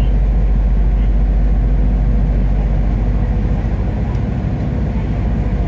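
Steady low rumble inside a passenger train carriage.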